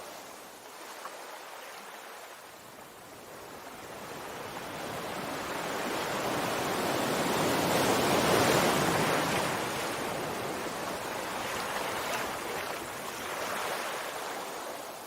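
Sea waves on a shore: the surf swells to a crash about halfway through, then slowly fades back to a steady hiss.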